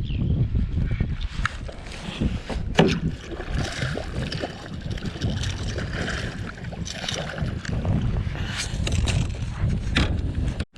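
Water splashing and sloshing around a fishing kayak, with a few sharp knocks and a low wind rumble on the microphone.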